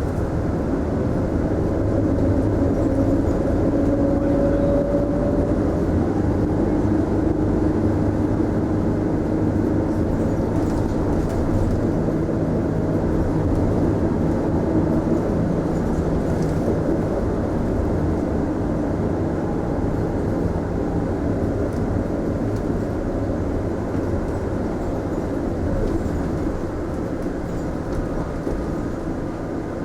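Mitsubishi Fuso Aerostar city bus under way, its engine and road noise heard from inside the passenger cabin as a steady rumble. A faint whine rises in pitch over the first few seconds.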